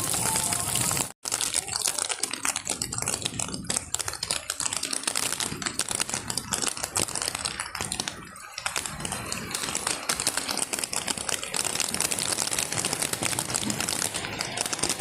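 Heavy rain falling: a loud, dense crackle of countless small drop impacts. It cuts out for a moment about a second in.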